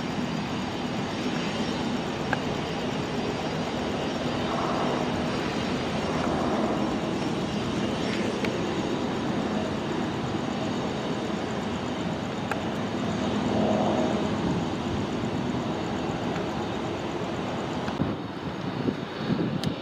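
Jet airliner engines running at a distance: a steady rumble and hiss with a few slow swells in level.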